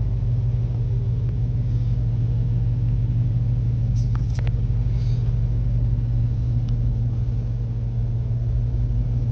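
Dodge Hellcat's supercharged 6.2-litre HEMI V8 idling with a steady low rumble, and a couple of faint clicks about four seconds in.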